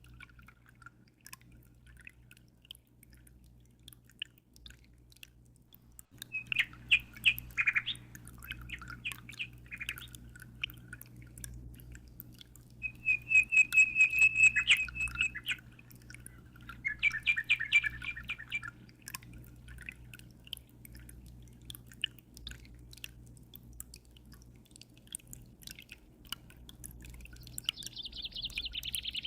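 A bird chirping in several bursts of quick, rapid notes, the loudest a fast trill about halfway through. Under it runs the steady low hum of an aquarium, with faint scattered drips.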